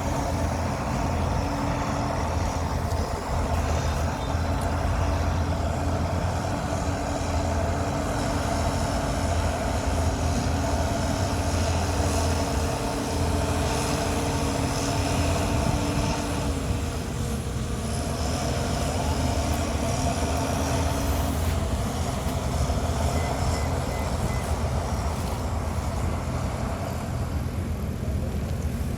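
Diesel engine of heavy earthmoving machinery running steadily, with a continuous low hum and no clear revving or pauses.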